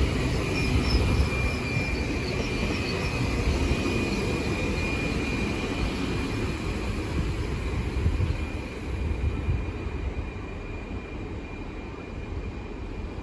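Class 802 bi-mode IET train pulling into the platform: a low rumble under a steady high whine, easing off in the last few seconds.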